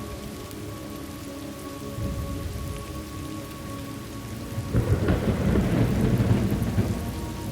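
Thunderstorm ambience: steady rain, with a low roll of thunder breaking in about five seconds in and rumbling on.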